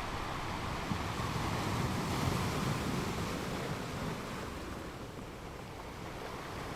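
Surf: a wave washing in, swelling about two seconds in and then easing off.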